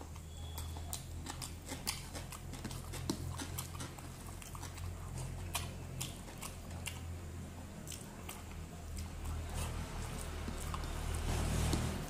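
Close-miked eating: chewing of rice and vegetables, with many small clicks and crunches, over a low steady hum.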